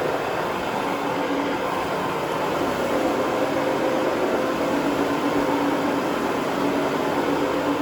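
Steady mechanical drone with a constant low hum running under it.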